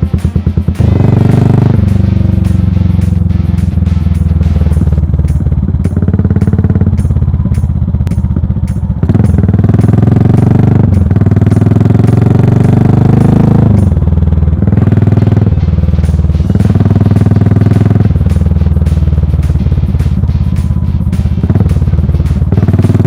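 Yamaha SR400's air-cooled single-cylinder four-stroke engine running through a full megaphone exhaust while riding. The revs climb and fall back several times, as under acceleration and gear changes.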